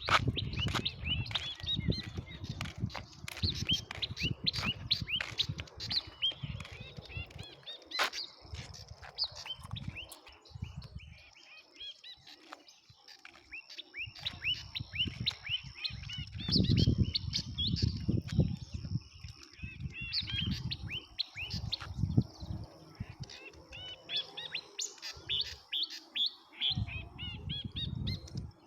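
Many small birds chirping, with dense, rapid short calls. A steady high whine runs from about six seconds in until near the end. Low rumbles come and go underneath.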